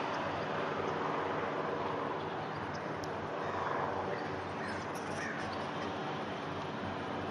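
Crows cawing a few times over a steady, low engine drone with a constant hum.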